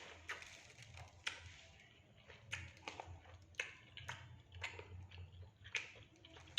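Close-up eating sounds: a person chewing and biting into fried fish and fried rice, with irregular sharp clicks and crunches about every half second to second, over a low steady hum.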